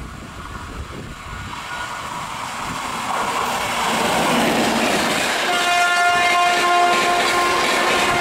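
WAP-7 electric locomotive-hauled express train running through at speed, its rumble and wheel noise growing louder as it approaches and passes. About five and a half seconds in, a train horn starts a long blast of several tones at once, held to the end.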